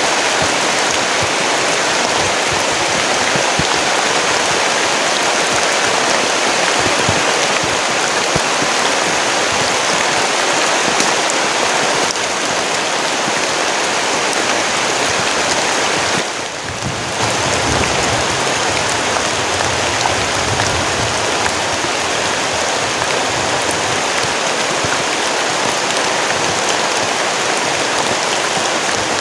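Heavy tropical rain pouring down steadily in the forest, as a dense, even hiss that dips briefly a little past the middle.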